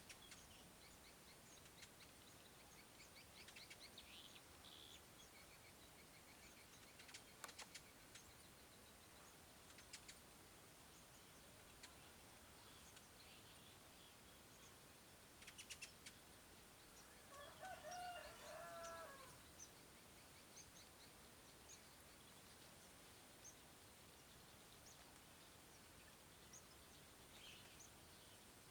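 Faint birdsong: scattered high chirps and trills, a few sharp clicks, and one louder, lower call lasting about two seconds a little past the middle.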